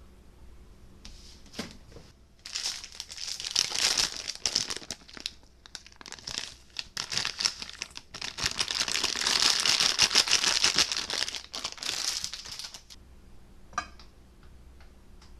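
Crinkly material being crumpled and crinkled in dense, uneven bursts for about ten seconds, with brief pauses in between, then a single short click near the end.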